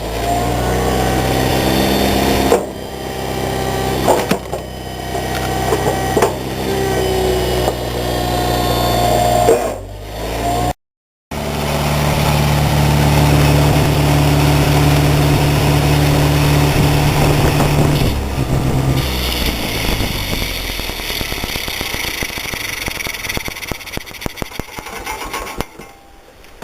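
Motor of an engine-driven wood-splitting machine running steadily, with a few sharp knocks in the first part. After a short break the motor runs again, then gives way to a fainter, noisier clatter of small clicks near the end.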